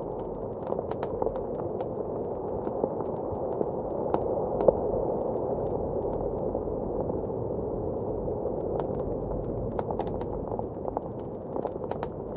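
Fireplace crackling, with irregular sharp pops and snaps, over a steady low rush of blizzard wind.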